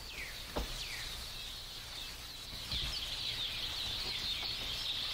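Birds calling: repeated short falling chirps, then a dense twittering chorus from about three seconds in, with a single soft knock about half a second in.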